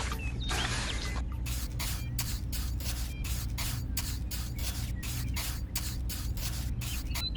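Short, evenly spaced hissing strokes, about three to four a second, over background music with a steady low beat.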